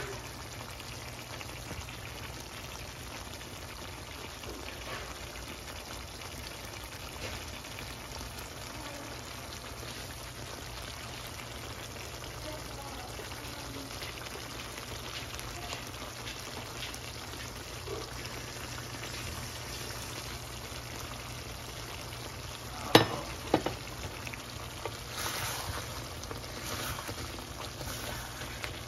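Chicken karahi frying in its pan with a steady, soft sizzle, the oil rising to the top in the final minutes of cooking. Two sharp knocks about 23 seconds in.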